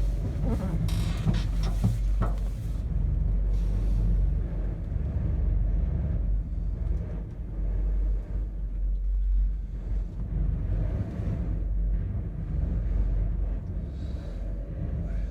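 Strong wind buffeting the microphone: a steady low rumble with gusty swells, plus a short hissy gust about a second in.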